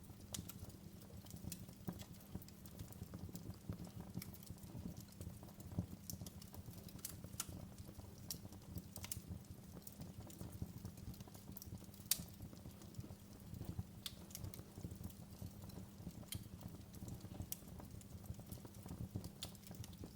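Wood fire in a fireplace crackling: irregular sharp pops and snaps, a few louder than the rest, over a steady low rumble of the burning.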